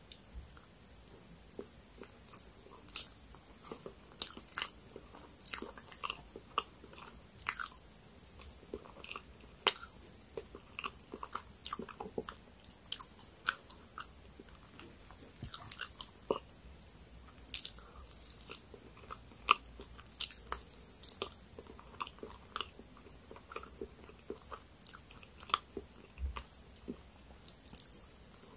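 Close-miked eating of soft layered cream cake: sticky mouth clicks, lip smacks and chewing sounds, irregular, from one to a few a second.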